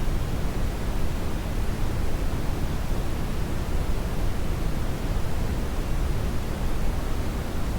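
Brown noise: a steady, even rushing hiss, heaviest in the bass and thinning out toward the treble, with no changes.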